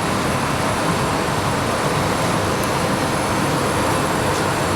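Paint booth ventilation, its air supply and extraction fans running with a steady, loud rush of air.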